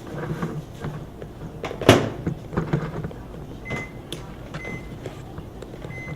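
Microwave oven door shut with a knock about two seconds in, followed by three short high beeps from the keypad as the cooking time is set.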